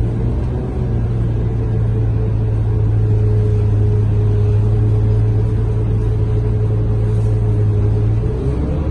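Scania K230UB bus's five-cylinder diesel engine running steadily under way, heard from inside the bus as a steady low drone, with a short shift in pitch near the end.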